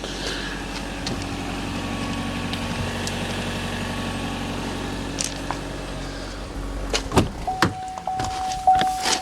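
A 2011 Chevy Volt's 1.4-litre four-cylinder gasoline engine running steadily at idle in service mode. Near the end come a few sharp door clicks and knocks, then a steady chime tone that pulses about every two-thirds of a second.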